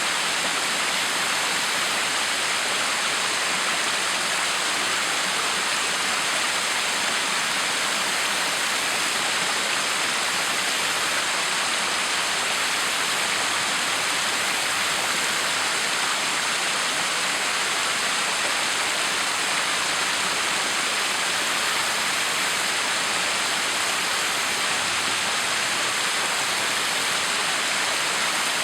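Backyard waterfall: water pouring and splashing in a steady, even rush that does not change.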